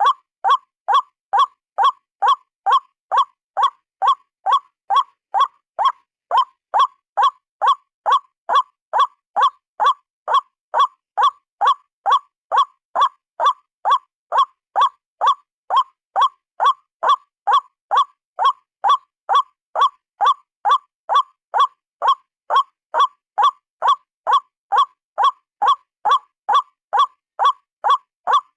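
A single white-breasted waterhen's call: one short note repeated evenly about twice a second, without a break. It is a lure recording used to call in waterhens.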